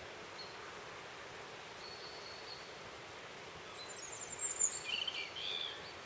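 Steady outdoor hiss with a few faint, thin, high bird notes. About four seconds in comes a short run of small-bird calls: high falling notes followed by lower chirps.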